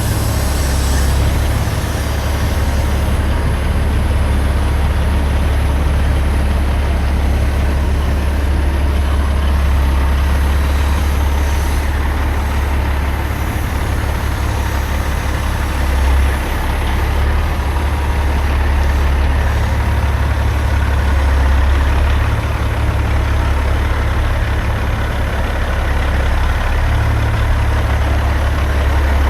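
Semi-truck diesel engine running with a steady low drone.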